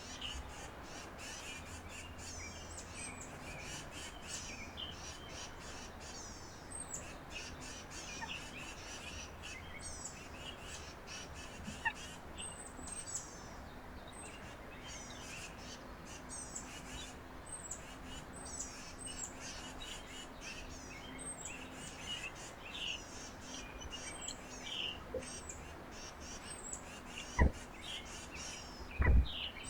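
Several backyard birds chirping and calling, with many short, high, thin descending notes repeated throughout and lower chirps mixed in. Two loud low thumps near the end.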